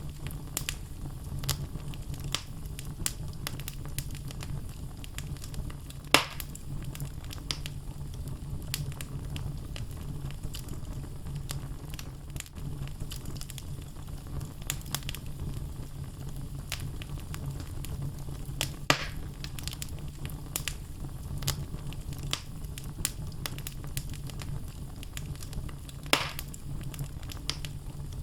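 Wood logs burning in a fireplace, crackling with many small snaps over a steady low rumble. Three louder pops stand out: about six seconds in, near the middle and near the end.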